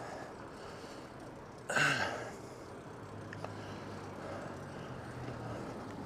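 Wind and road noise from a fixed-gear bike ride, with a sudden louder rush about two seconds in and a low steady hum for a few seconds after.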